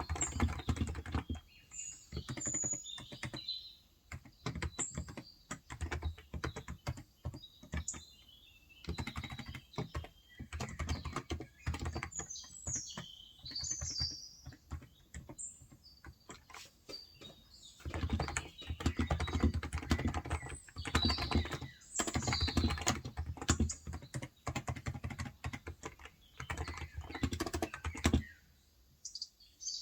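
Typing on a Cox Endeavour tenkeyless keyboard with 35 g electrostatic capacitive (Topre-style) switches, in bursts of fast keystrokes broken by short pauses. Small birds chirp now and then behind the typing.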